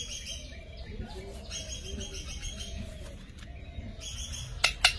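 Parrot chattering with scratchy chirps, then a quick run of sharp, shrill calls near the end.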